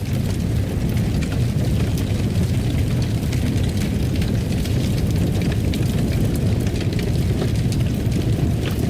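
Fireplace fire crackling: a steady low rumble of flames with frequent small sharp pops and crackles throughout.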